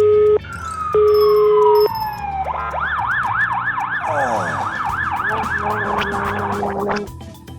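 Two long telephone ringing tones, then a single falling tone, then an ambulance siren warbling quickly up and down, about three cycles a second, for roughly four and a half seconds before it cuts off.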